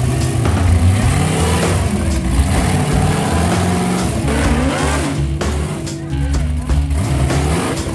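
Rock-racing truck engine revving up and down over music with a steady bass line, with a few sharp knocks.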